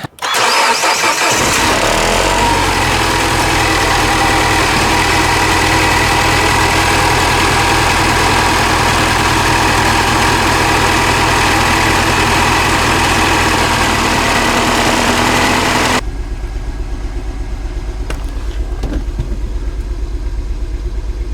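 Mini Cooper S Clubman's turbocharged four-cylinder engine starting and running loudly; about three quarters of the way through the level drops abruptly, and the engine runs on with an uneven, pulsing sound. It is still misfiring, even with a new ignition coil fitted.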